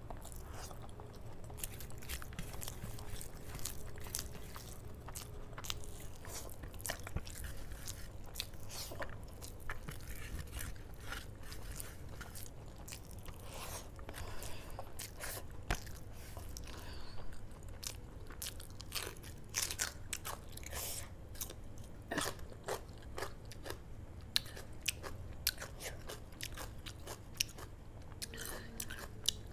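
Close-miked chewing and wet mouth sounds of someone eating handfuls of rice with pakoda kadhi, with many short sharp lip smacks and clicks. A low steady hum runs underneath.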